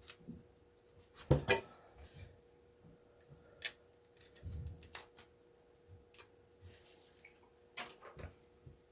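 Scattered clinks and taps of small scrap metal pieces and hand tools being handled and set down, with a sharp pair about a second and a half in, another pair near the end and a duller knock in the middle. A faint steady hum sits underneath.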